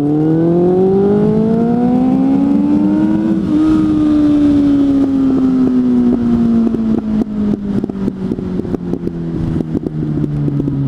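Suzuki GSF 600 N's inline-four with an aftermarket exhaust, its revs climbing smoothly for about three and a half seconds, then falling away slowly as the throttle closes. In the second half, crackling and popping from backfires on the overrun.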